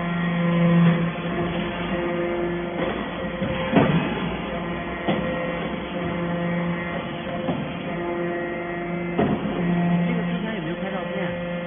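Hydraulic metal-chip baler running: a steady machine hum that swells and eases every couple of seconds, with sharp metallic knocks about four and nine seconds in.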